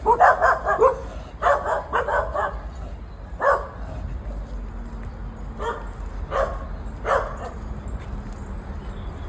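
Dog barking: quick runs of barks in the first few seconds, then single barks spaced about a second apart.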